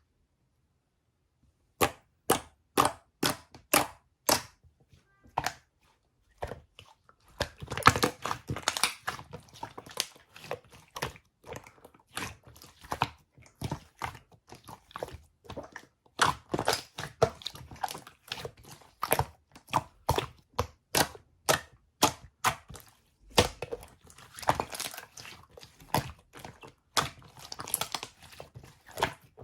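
Sharp close-up clicks, about two a second at first, then a dense run of crackling and popping.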